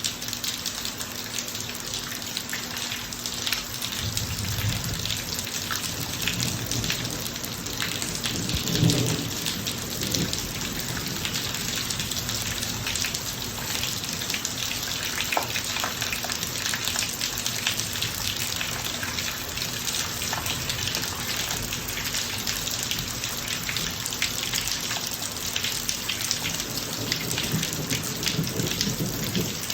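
Rain falling steadily in a thunderstorm, a dense patter of drops on the driveway. A low rumble of thunder comes in about four seconds in and swells loudest around nine seconds.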